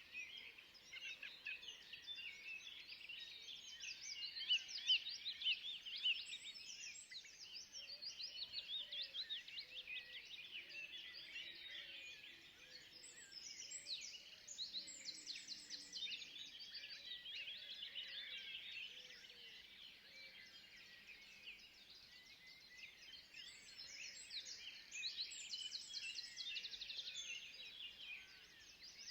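Forest ambience: a dense chorus of many small birds chirping and twittering without pause. A fainter, lower warbling call runs through the middle.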